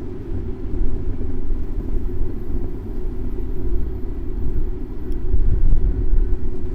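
Steady low rumble of a bicycle ride through city traffic, picked up by a camera mounted on the bike.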